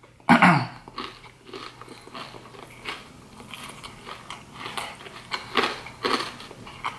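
A person chewing a crunchy breaded fried seafood bite with the mouth closed: irregular crisp crunches of the breading. A brief voiced sound comes just at the start.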